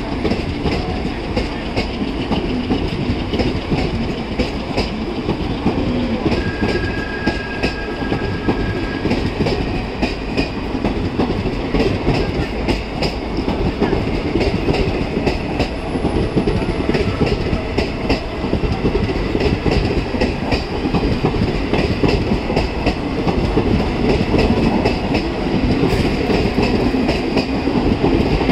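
Passenger coaches of a departing express rolling past, their wheels clattering over rail joints with a steady clickety-clack as the train gathers speed, growing a little louder towards the end.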